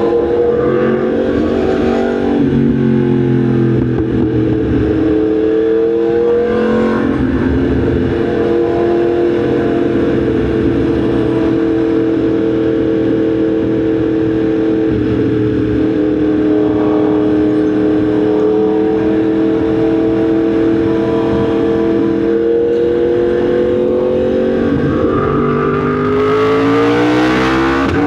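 Yamaha MT-10 SP motorcycle's crossplane inline-four engine running at steady cruising revs, then climbing in pitch under acceleration near the end before dropping at a gear change.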